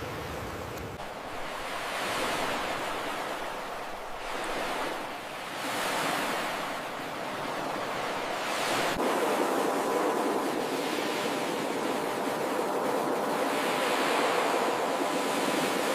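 Ocean surf: waves breaking and washing in, swelling and fading every few seconds. From about halfway, a faint steady hum of several tones sits under the surf.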